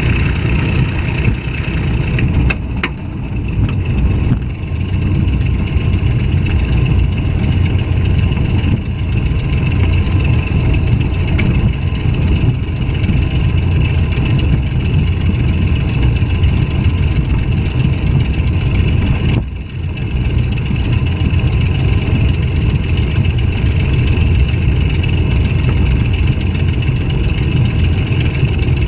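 Packard-Merlin V-1650-7 V-12 piston engine of a P-51D Mustang running steadily, heard from inside the cockpit, with two brief dips in loudness, about three seconds in and again near twenty seconds in.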